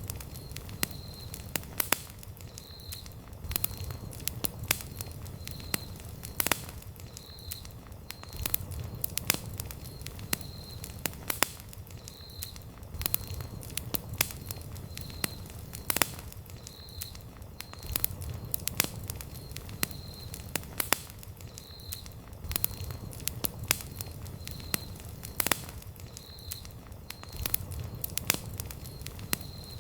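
Wood campfire burning, with frequent sharp crackles and pops over a low rumble of flame.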